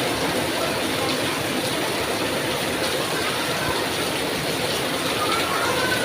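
Heavy rain falling, a steady even hiss of water that does not let up.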